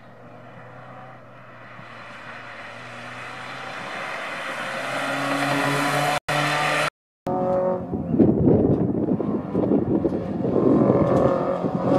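Engine of a red BMW 3 Series (E36) coupe accelerating past on a slalom course, its note growing steadily louder and a little higher as it nears. After a brief dropout about two-thirds of the way through, another slalom car's engine is heard revving hard, louder and rougher, rising and falling.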